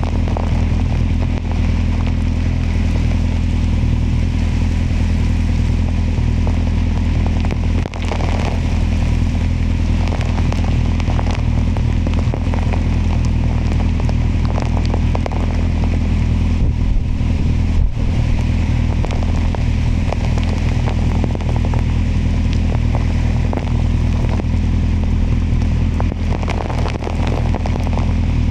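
Kawasaki motorcycle engine running at a steady cruise, with rain ticking and crackling against the camera and its microphone.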